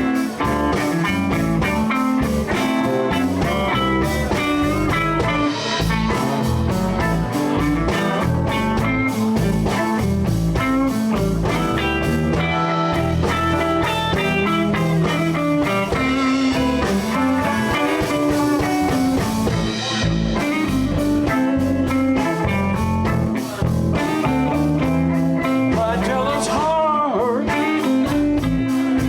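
Live blues band playing: guitar over bass and drums with a steady beat, and a few sliding, bending notes near the end.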